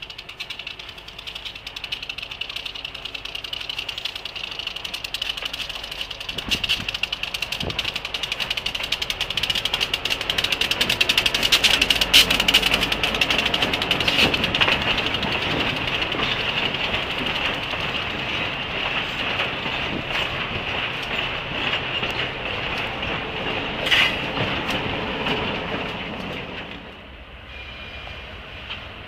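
Loaded freight train passing close by, its rock-filled railcars rolling past with dense clicking and clacking of wheels on rail and a steady high-pitched note, growing to its loudest about halfway through. The sound drops abruptly to a quieter train noise near the end.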